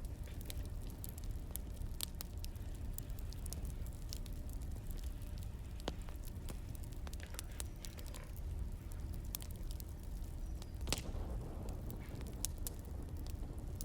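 Firewood burning: irregular crackles and pops over a steady low rumble, with one louder pop about eleven seconds in.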